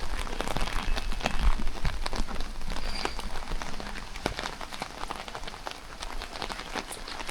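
Rain falling, a steady hiss with many separate drops striking close to the microphone.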